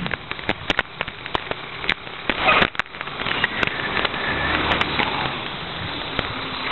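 Recyclables clattering and cracking in the hopper of a Heil 5000 rear-loader recycling truck: a run of irregular sharp knocks and crunches over the truck's running engine, which comes through as a low hum midway.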